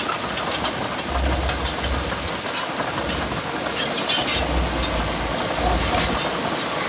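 Heavy earthmoving machinery working: a steady mechanical noise with repeated clanking and rattling and several heavy low rumbles.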